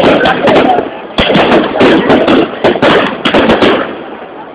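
Fireworks going off: a rapid, dense run of bangs and crackling bursts, easing off near the end.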